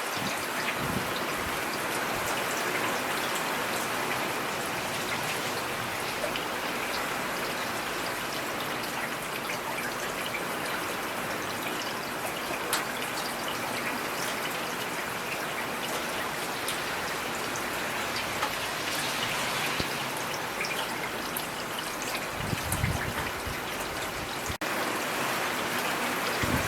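Steady rain falling, with scattered distinct drops and a trickle of running water, and a brief low rumble a little before the end.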